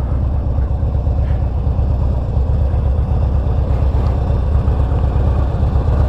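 A 2009 Harley-Davidson Street Glide's V-twin idling steadily with a low exhaust beat through Sharkroad 4.5-inch slip-on mufflers.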